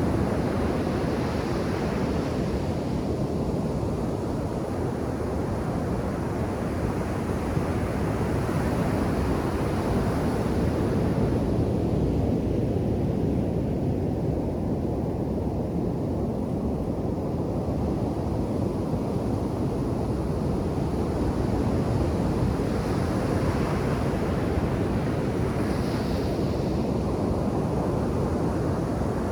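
Ocean surf breaking on the shore: a continuous low rumble of waves, with the hiss of breaking water swelling up and dying away a few times.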